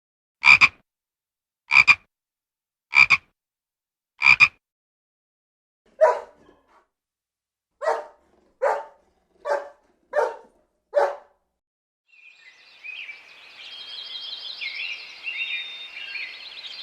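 A series of short, sharp animal calls: four evenly spaced calls, then a quicker run of six lower calls. From about twelve seconds in, a higher, steadier chirping sound.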